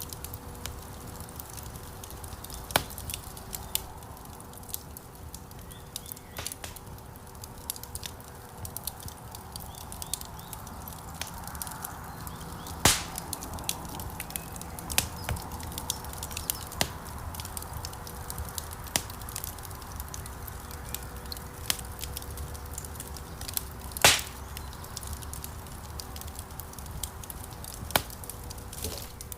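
Wood fire crackling in a fireplace: irregular sharp pops and snaps over a low steady rumble of flame, with two louder snaps, one near the middle and one later on.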